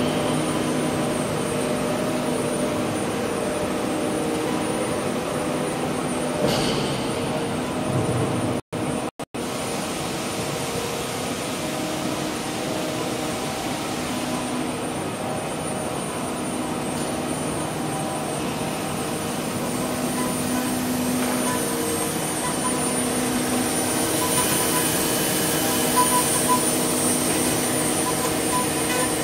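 CNC wood lathe's router spindle running a finishing pass with a 6 mm ball-nose bit: a steady machine whine with cutting noise. The sound cuts out briefly twice about nine seconds in.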